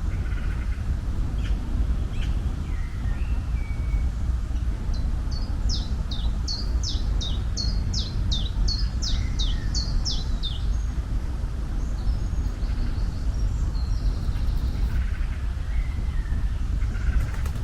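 A bird sings a run of about fourteen sharp, high notes, each falling in pitch, a little over two a second for about five seconds, with other fainter chirps before and after. Under it runs a steady low rumble.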